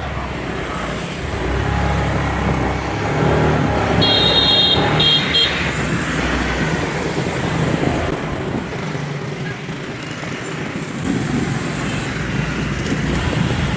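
Busy city road traffic: motorbike and car engines running steadily, with a vehicle horn honking twice in quick succession about four seconds in.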